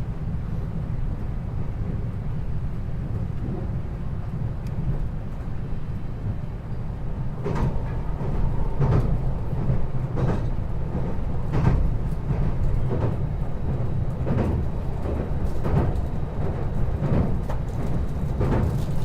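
Running noise inside a 521-series electric train car (KuMoHa 521-24) under way: a steady low rumble. From about seven seconds in, a regular clack comes roughly every second and a half, as the wheels pass over rail joints.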